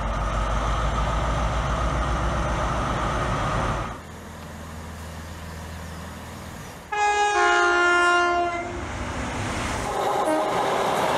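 A series of British diesel trains: a Class 43 HST power car's engine running with a steady deep rumble, then a quieter passing multiple unit. About seven seconds in a train's two-tone horn sounds loudly for under two seconds. A diesel locomotive's engine then runs again near the end.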